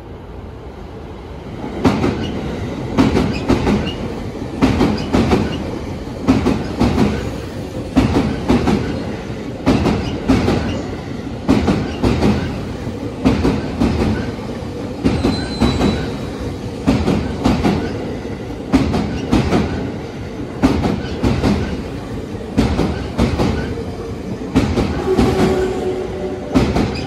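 JR East Series E257 electric train running past, its wheels making a regular clickety-clack on the rail joints about once a second as car after car goes by.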